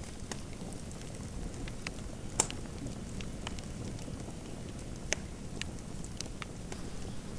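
Fireplace fire crackling: a steady low rumble with irregular sharp pops, the loudest about two and a half seconds in.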